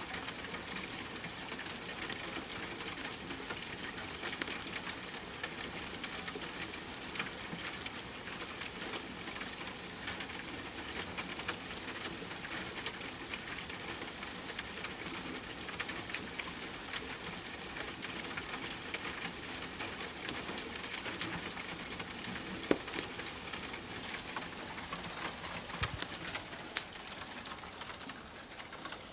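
Steady rain hiss mixed with a crackling wood fire: many small pops and snaps over the even rush of rain, with a few louder snaps in the later part.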